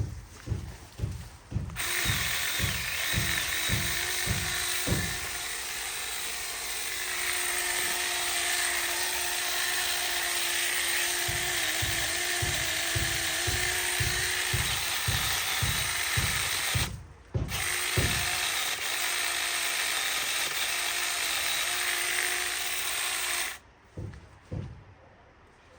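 Chainsaw running steadily under load, cutting through wood, cutting out briefly once and stopping near the end. A steady low beat of background music thumps about three times a second throughout.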